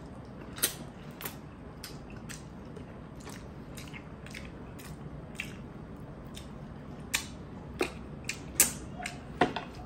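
Close-up eating sounds: wet mouth clicks and smacks of chewing on simmered tuna eyes, a few a second, with several louder, sharper smacks near the end.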